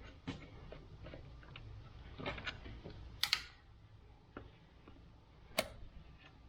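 A few scattered sharp clicks and light knocks of small parts and hand tools being handled during disassembly, about five in all, the loudest about three seconds in.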